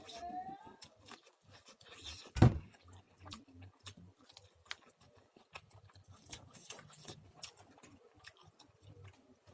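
Popcorn being chewed: scattered crunches and small mouth clicks throughout. A short rising pitched sound comes right at the start, and a loud low thump, the loudest thing, about two and a half seconds in.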